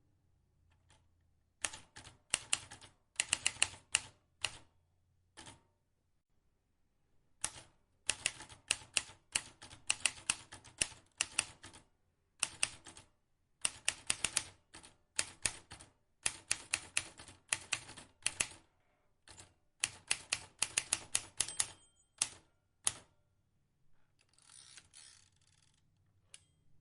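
Vintage typewriter keys struck in quick bursts of sharp clacks, several to a second, broken by short pauses. Near the end comes a rasping noise of about two seconds with no separate clicks.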